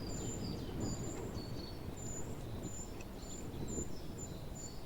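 A small bird chirping over and over in short, high, clipped notes, alternating between two pitches, over a low rumble of wind on the microphone.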